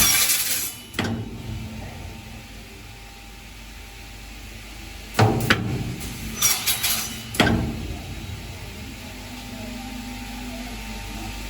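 Woodworking cutting machine clunking: a short hiss at the start, then a low steady hum with a few sharp knocks and clatter, wood against metal, about five seconds in and again around seven seconds.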